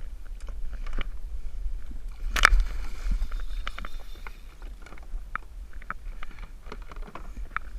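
Scattered knocks and clatters on a plastic fishing kayak, with one louder thump about two and a half seconds in.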